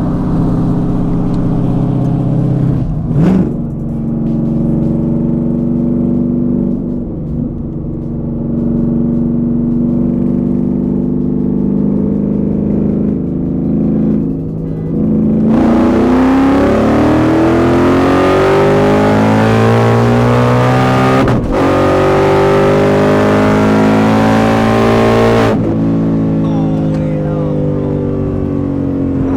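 Car engine cruising at a steady low note, then opened to full throttle about halfway through for a roll-race pull. The pitch climbs, breaks sharply for a gear change, climbs again, and falls away as the throttle is lifted near the end.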